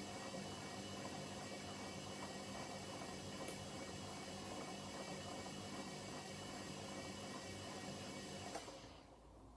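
Hoover H-Wash 300 washing machine running during an Auto Clean 60 programme, a steady hum with hiss. A click comes about 8.5 seconds in, and the running sound then dies away.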